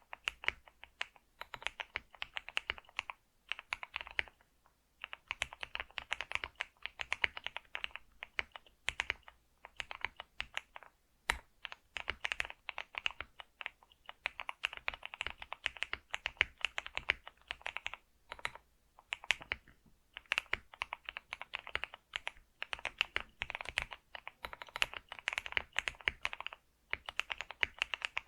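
Computer keyboard being typed on steadily: fast runs of key clicks, broken by brief pauses a few seconds in, about two-thirds through and near the end.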